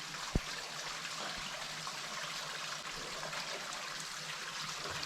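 Water trickling steadily in flooded lead-mine workings, with a single short knock about half a second in.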